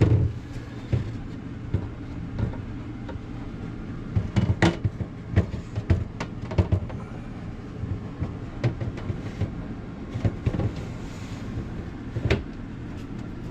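Irregular plastic knocks and clicks as refrigerator shelf parts are handled and fitted into place, over a steady low hum.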